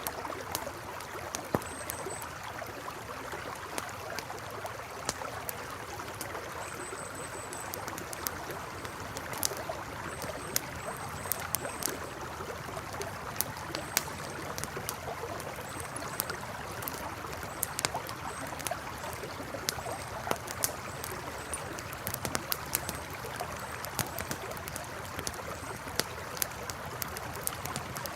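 River flowing steadily with a campfire crackling over it: sharp pops scattered throughout. Faint short high chirps recur about every second or so in the second half.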